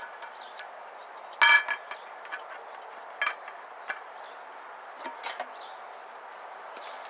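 Scattered sharp metallic clinks and taps over a steady hiss, the loudest about one and a half seconds in with a brief ringing.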